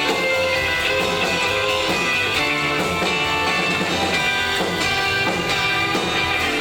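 Live rockabilly band playing: electric guitar over a steady drum beat.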